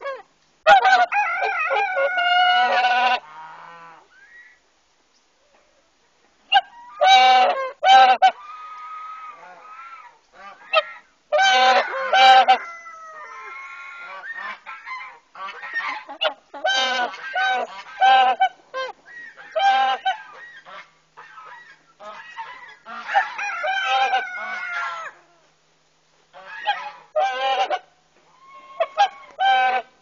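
Birds calling loudly, in repeated bouts of short pitched calls that sometimes overlap, with brief pauses between the bouts.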